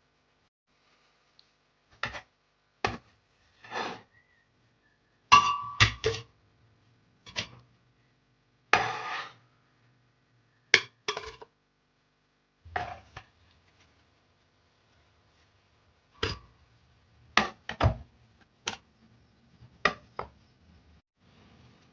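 Hard objects being handled one at a time: a string of short clinks and knocks with silences between them, and one longer scraping sound about nine seconds in.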